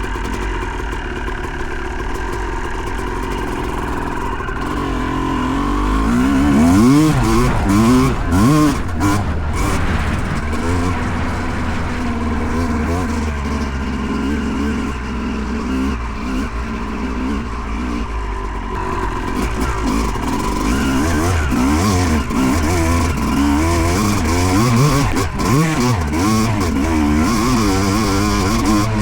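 Two-stroke 2008 Yamaha YZ250 dirt bike engine being ridden hard, its pitch climbing and falling again and again with the throttle and gear changes. It is loudest about seven to nine seconds in, and revs up and down in another run of quick swings past the middle.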